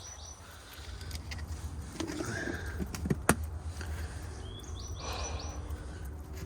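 Outdoor yard ambience: a small bird chirps a quick run of short high notes about five seconds in, over a steady low hum, with a lower call about two seconds in and a couple of sharp clicks around three seconds.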